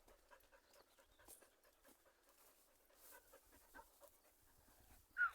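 Border collies panting faintly in short irregular puffs. Near the end comes one brief, high squeal that falls in pitch.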